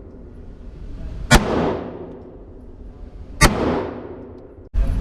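Two shots from a 9mm gun about two seconds apart, each trailing off in an echo.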